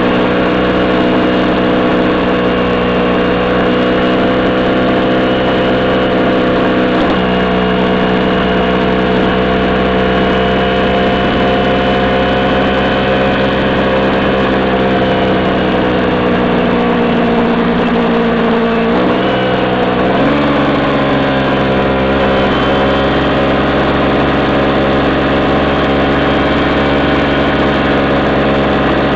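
Kawasaki Ninja 250R's parallel-twin engine running steadily at road speed, over a rush of wind and road noise. About two-thirds of the way through, the engine note dips briefly, then settles at a new steady pitch.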